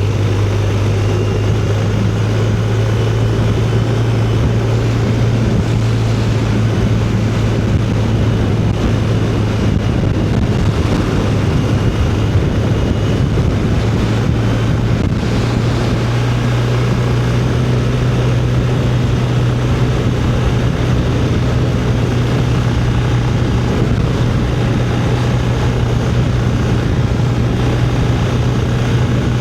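Motorcycle riding at a steady cruise: a constant low engine drone that holds one pitch throughout, under rushing wind noise.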